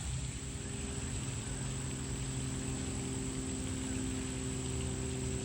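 A motor running at a steady pitch, a low hum that sets in about half a second in, over an even background hiss.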